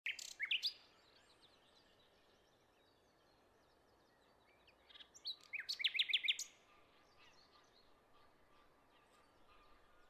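Songbirds chirping: a short flurry of quick, sharp chirps at the very start and a longer one about five seconds in, over faint scattered chirping in the background.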